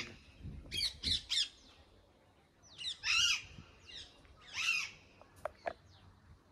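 A bird calling: three short calls in quick succession about a second in, then a longer call around three seconds and another just before five seconds, followed by two faint clicks.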